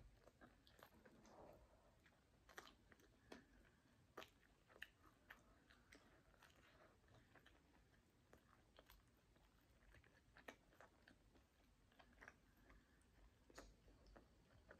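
Faint chewing of chicken, with scattered short wet mouth clicks and smacks.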